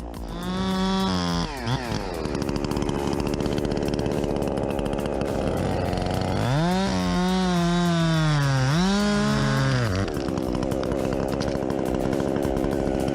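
Chainsaw engine running at high speed, revving up and dropping back briefly about a second in and again in a longer rise and fall from about 7 to 10 seconds, settling to a steady run in between and afterwards.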